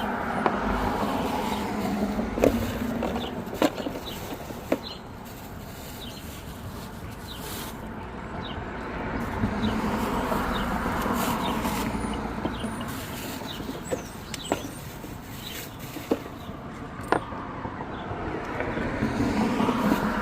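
Passing road traffic, rising and fading in three slow waves, with scattered sharp clicks and taps throughout.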